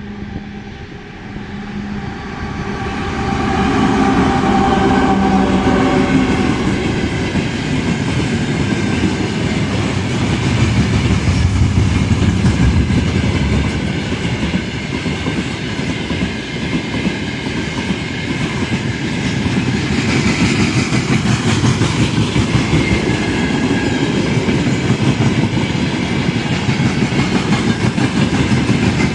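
A train passing close by: a steady humming tone and a rise in loudness over the first few seconds, then the rapid clatter of wheels over the rails, running loud and continuous.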